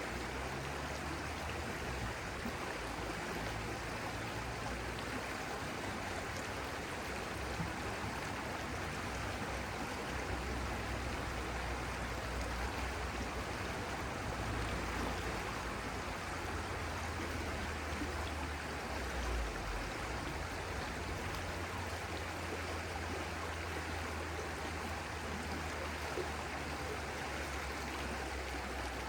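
Stream flowing steadily, a continuous rush of water with a low rumble underneath.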